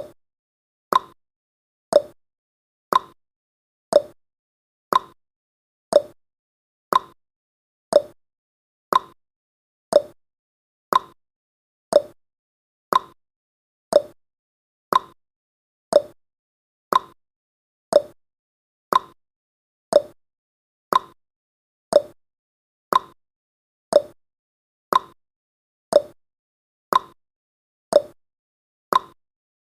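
Countdown timer's tick sound effect: one short tick every second, evenly spaced, about thirty in all.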